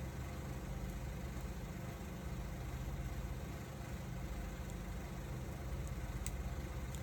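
Firewood burning, with a few sharp crackles in the second half over a steady low rumble.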